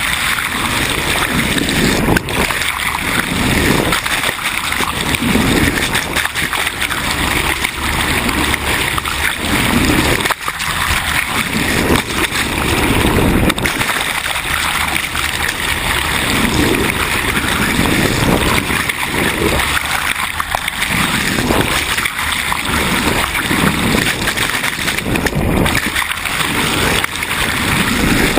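Sea water rushing and splashing along a moving sailboat's hull, surging every second or two as the boat meets the waves.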